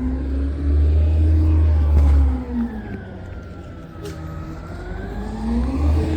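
Garbage truck engine revving up and back down twice: a deep rumble that swells for about two seconds near the start, eases off in the middle, and rises again near the end.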